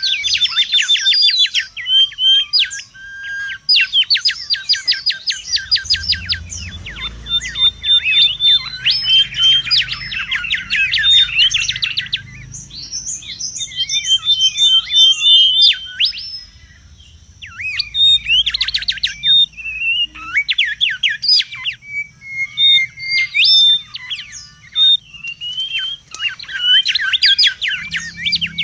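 Mangrove whistler calling busily: rapid runs of sharp, rising and falling whistled notes and trills, almost without pause, with a short lull a little past halfway.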